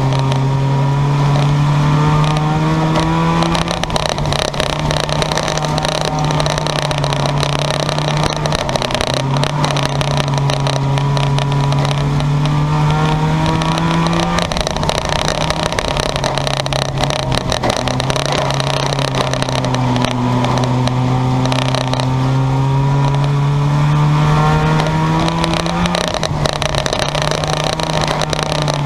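Race car engine running at high revs through a race: a loud, steady engine note whose pitch climbs slowly for about ten seconds and then drops suddenly, three times over.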